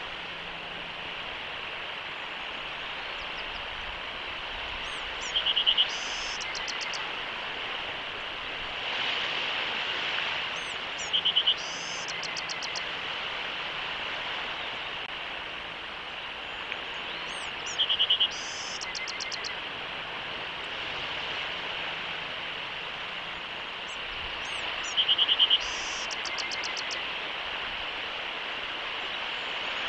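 A small bird repeats a short song four times, about every six to seven seconds: a few high rising notes, a fast buzzy trill, then a brief rattle lower down. Under it runs a steady high background chorus.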